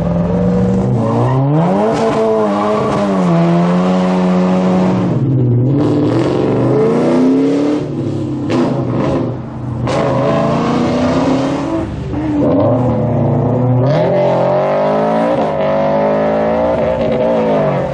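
Car engine revved hard again and again, its pitch climbing and falling in repeated pulls, with short breaks between them.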